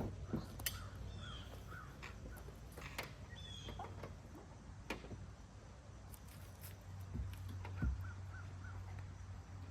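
A bird calling outdoors in short runs of about four quick notes, once near the start and again about eight seconds in. A few sharp knocks and a steady low hum lie underneath.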